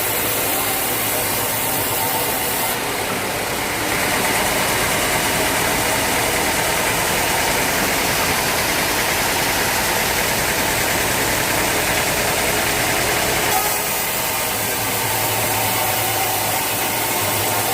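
Sawmill machinery running steadily with a low hum. About four seconds in, the sound grows louder and hissier, and it settles back about four seconds before the end.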